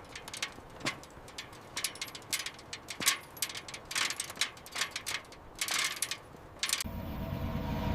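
Irregular sharp metallic clicks and ratcheting from a hand tool working at a restraint, several a second. A steady low rumble starts just before the end.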